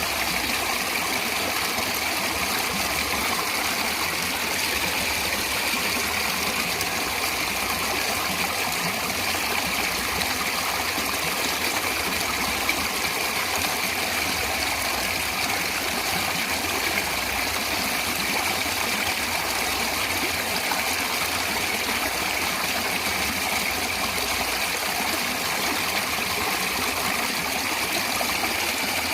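A stream of water running and babbling steadily, a continuous splashing rush with no pauses.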